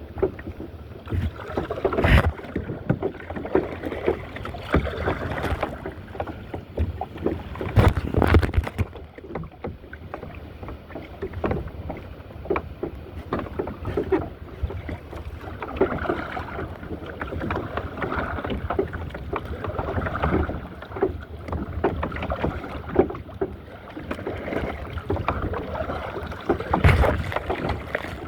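Kayak being paddled: irregular splashing and dripping of water from the paddle strokes around the hull. A few louder knocks or splashes come about two seconds in, around eight seconds, and near the end.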